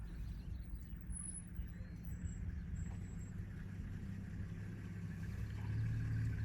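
Vehicle engine idling with a low, steady rumble that grows a little louder near the end.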